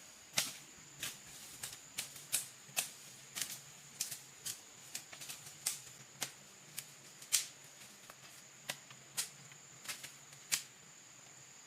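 Irregular sharp clicks and knocks, roughly two a second, over a faint steady high-pitched tone.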